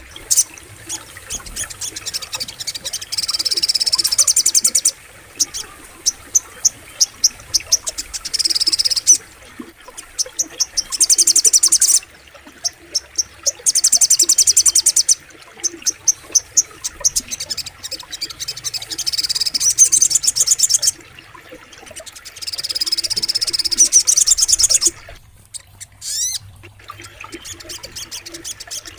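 Spiderhunter (sogok ontong) singing in repeated bursts of fast, high-pitched chattering trills, each a second or two long, with short pauses between them.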